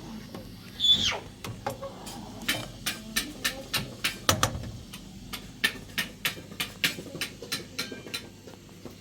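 A quick series of sharp knocks or taps, about three a second, with a brief high squeak about a second in.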